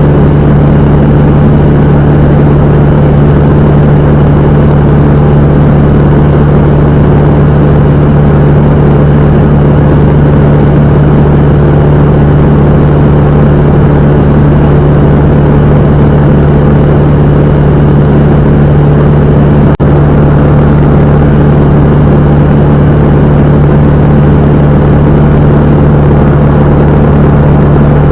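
Cessna 172M's four-cylinder Lycoming engine and propeller running at a steady, loud drone, with one momentary dip about twenty seconds in.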